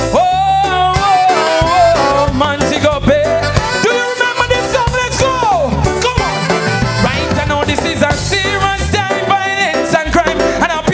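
Live reggae band playing into a song, with drums, bass and other instruments. A long, wavering note is held for the first two seconds or so, and pitched lines glide up and down through the rest.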